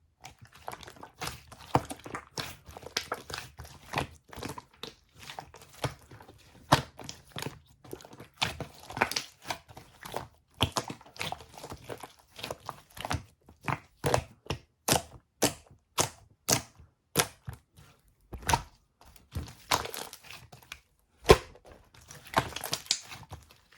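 Rapid, irregular clicks, taps and light knocks with some crinkling: cups and utensils being handled while a drink is made.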